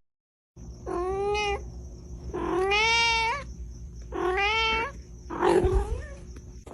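Domestic cat meowing four times in long, drawn-out calls, the last one rougher.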